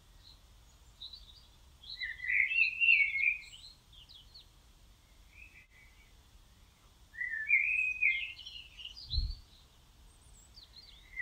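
A songbird singing twice, each time a warbling phrase of a second or two, with a soft low thump about nine seconds in.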